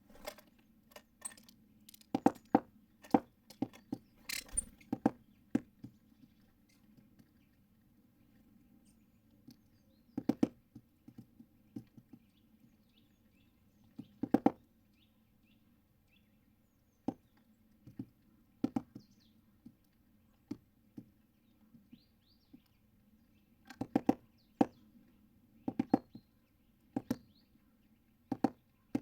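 Birds at a feeder pecking and hammering at seeds: sharp, irregular knocks in short clusters, with a few faint high chirps in between.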